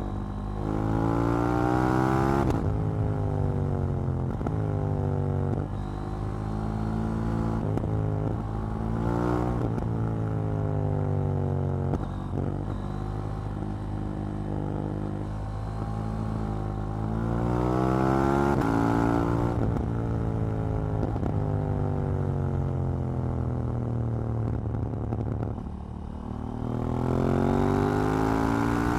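KTM 790 Duke's parallel-twin engine pulling hard through the gears, its pitch climbing and then stepping down at each upshift. Between the pulls it winds down slowly on a closed throttle, then picks up again near the end.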